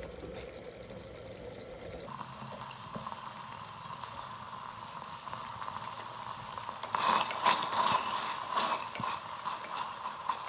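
Chicken cooking in a pot, a steady bubbling hiss. About seven seconds in there are a couple of seconds of louder clattering and stirring in the pot.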